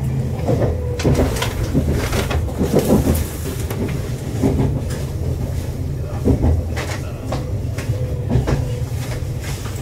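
Inside a Meitetsu limited-express electric train standing at a station platform: the car's equipment gives a steady low hum with a faint steady tone, and scattered clicks and knocks sound throughout.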